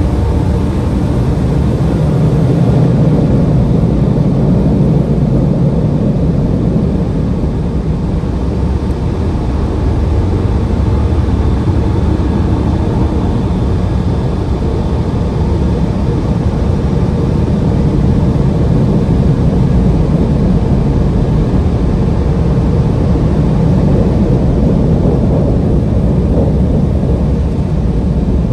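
Automatic car wash machinery running: a loud, steady low rumble and rush of noise with no breaks.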